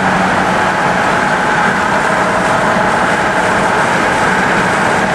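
A vehicle driving steadily down the road: constant engine and road noise with a low steady hum.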